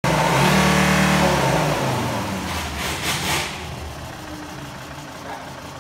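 Volvo V70 engine running at high revs, its note falling away over about two seconds, then settling to a steady idle. A brief hissing rush sounds about three seconds in.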